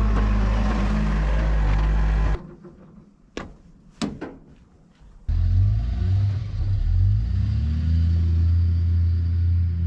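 Engine running steadily, cut off abruptly, then after a quieter gap with two sharp knocks running again and revving up about two seconds later.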